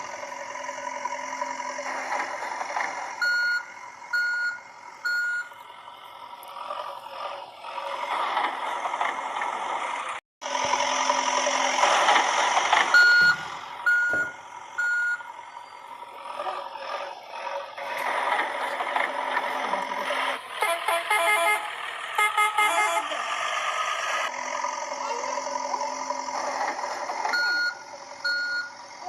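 Battery-powered toy trucks' electronic sound effects: a recorded engine noise with short series of reversing beeps, about one a second, three times, and a rapid run of electronic tones near the middle.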